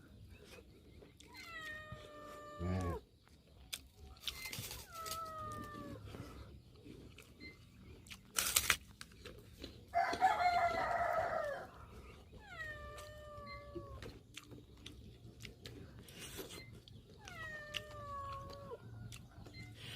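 Village chickens (ayam kampung) calling: several drawn-out pitched calls of about a second each, falling then levelling off, with a louder, harsher call about halfway through. A sharp knock comes just before that louder call.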